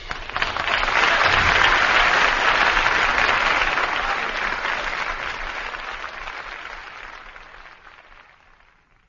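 Studio audience applauding, swelling within the first second or two and then fading away to nothing near the end.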